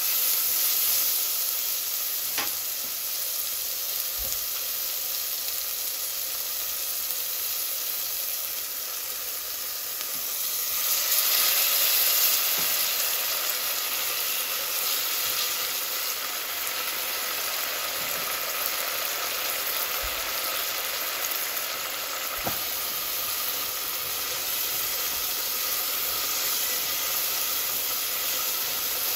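Tomatoes and spice seeds sizzling in hot oil in a nonstick pot, stirred with a silicone spatula, with a few faint taps. About ten seconds in, water is added and the sizzle flares louder for a couple of seconds before settling back to a steady hiss.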